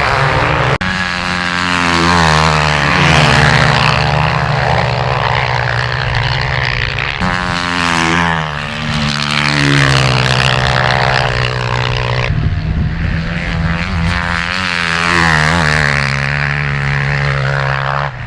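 Motocross bike engine running hard at high revs, its pitch shifting abruptly a few times and rising and falling in between.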